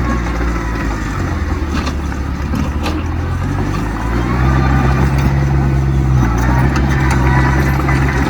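Heavy diesel engine of earthmoving machinery running under load, a steady low drone that grows louder about halfway through.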